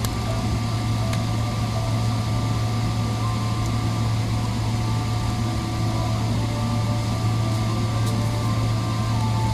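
Steady low drone inside the cabin of a Boeing 777-300ER just after landing, with faint higher whining tones that shift slightly in pitch.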